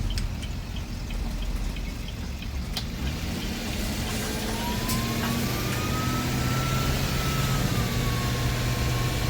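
Bus engine running on the move, its low note climbing a few seconds in as it gathers speed. A thin whine rises over it and then wavers.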